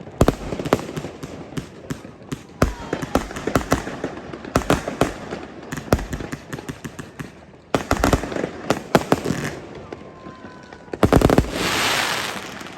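New Year fireworks display: rapid bangs in clusters, with a dense burst of crackling near the end.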